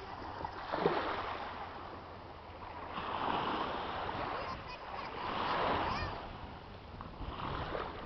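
Water waves washing, a noisy swell that rises and fades about every two seconds.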